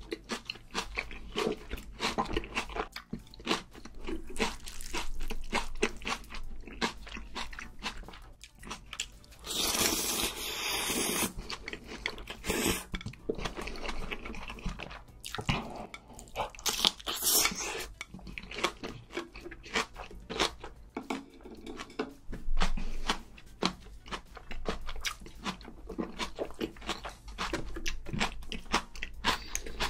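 Close-miked chewing and crunching of food, beef steak wrapped in green-onion kimchi, made up of many small quick clicks and crunches. There are two louder, rougher stretches, about ten seconds in and about seventeen seconds in.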